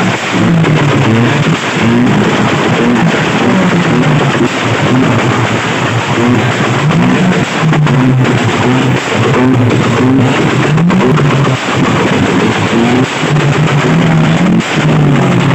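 Car engine being revved over and over, its pitch climbing and dropping back every second or two over a loud, steady rush of noise.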